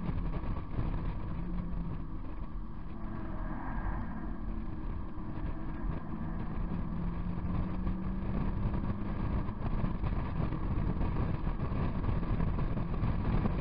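Second-generation (NB) Mazda MX-5's four-cylinder engine running at track speed, heard from inside the open cockpit with the roof down. The engine note eases off about a second in and builds steadily again through the second half.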